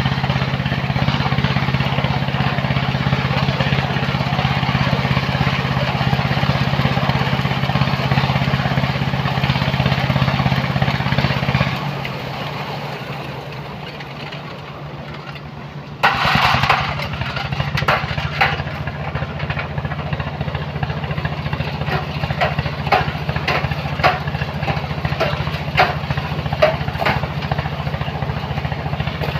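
The diesel engine of a sand-loading machine runs steadily, then eases off about twelve seconds in. About four seconds later a sudden loud rush breaks in, followed by scattered clattering knocks over the steady engine.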